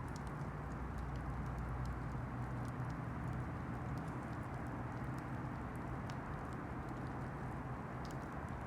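Campfire burning: scattered small crackles and pops from the wood over a steady rushing noise, with a low steady hum underneath.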